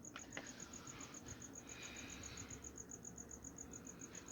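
Faint, steady insect chirping, a high-pitched pulse repeating about seven times a second, with two small clicks near the start.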